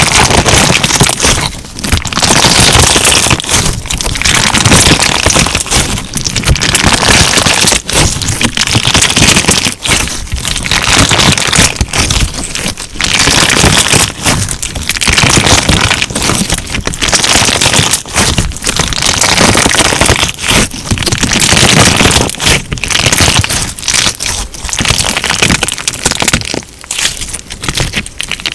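Crunchy clear slime being squeezed and worked by hand, giving dense crackling and popping in waves about every two seconds.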